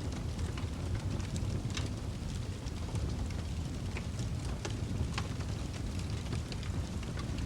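Wood fire crackling in a fireplace: a steady low rumble of burning with irregular sharp pops and snaps, several a second.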